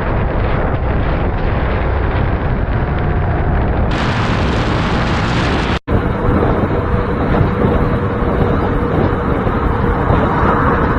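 Heavy wind rushing over the microphone of a moving vehicle, with engine and road noise underneath. It cuts out abruptly about six seconds in, and another similar recording picks up, with a faint steady tone.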